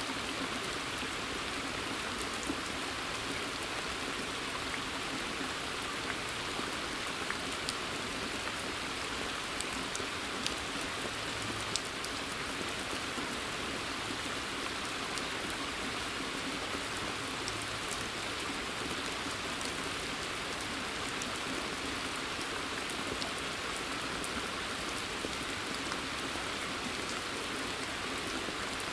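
Steady rain falling in a forest, an even hiss with scattered individual drops ticking out above it.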